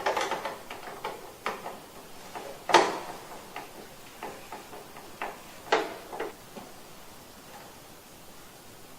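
Irregular light clicks and knocks of hands working on the plastic casing of a wall-mounted split air-conditioner indoor unit, with two louder knocks about three and six seconds in.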